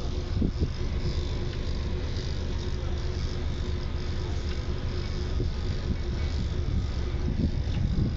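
Vehicle running: a steady low engine and road rumble with a faint steady hum.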